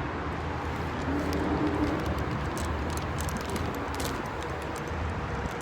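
Steady street noise with a low rumble while riding a rental electric scooter through city traffic, with faint ticks and rattles.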